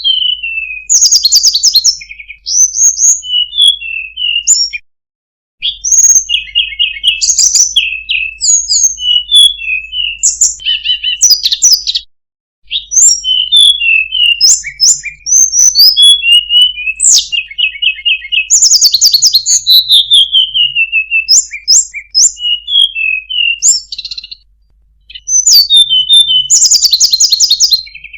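Tledekan gunung singing a long, varied song of rapid trills and twittering notes, with downward-sliding whistles, in phrases broken by a few brief pauses.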